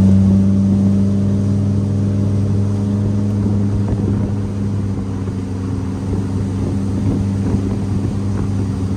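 Motorboat engine running at a steady speed with the boat under way.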